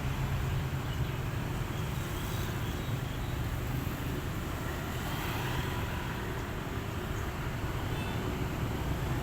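Steady low rumble like engine or traffic noise, with a few faint, short high notes over it.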